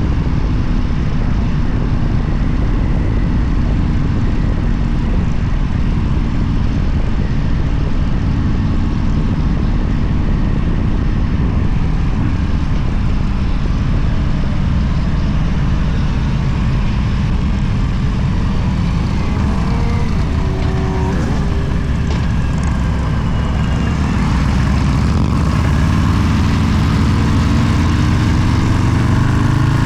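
Motorcycle engine running steadily at road speed under wind noise, with shifts in engine pitch about twenty seconds in and again near the end.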